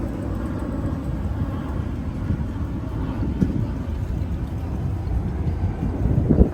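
Wind buffeting the microphone: a steady low rumble with uneven flutter, swelling into a stronger gust near the end.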